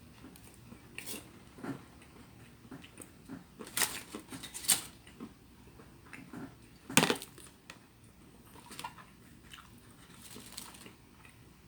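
Close-up eating sounds: chewing, with scattered clicks and knocks, the loudest a few about four to five seconds in and one about seven seconds in.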